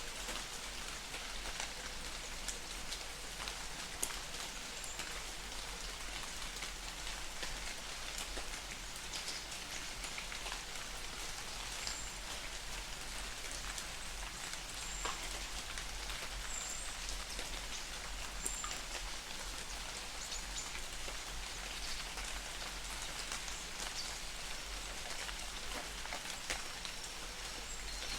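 Light rain falling in a forest: a steady patter of drops, with a few sharper single drips standing out now and then.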